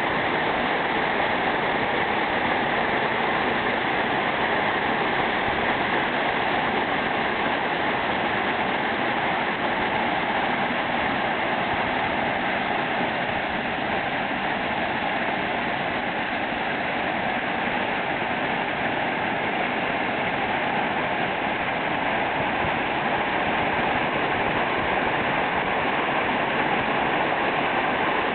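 Waterfall falling steadily: an even, unbroken rush of water.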